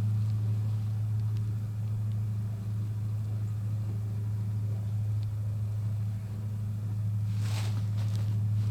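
A steady low hum runs throughout, with a brief rustle about seven and a half seconds in.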